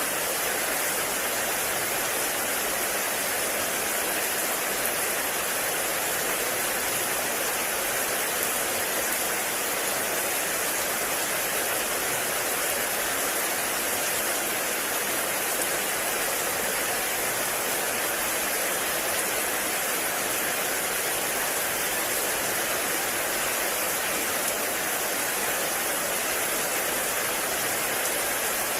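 Heavy rain falling steadily in a forest, an even unbroken hiss of water.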